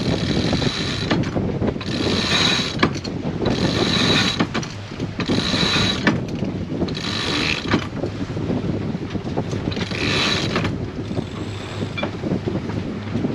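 Sailboat winch and blocks being worked in repeated strokes to hoist a sail, ratcheting and rattling in short bursts about every second and a half. Wind and water rumble underneath.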